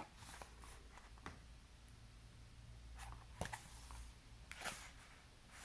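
Faint rustling and a few soft taps of a paper picture book's pages being handled and turned, over a low room hum.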